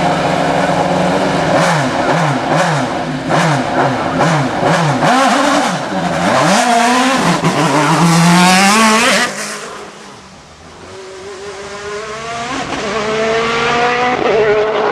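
Hillclimb race car engine at high revs, its pitch climbing and dropping again and again with quick gear changes, loudest as it passes about eight seconds in and then falling away. Another engine note then builds and rises toward the end.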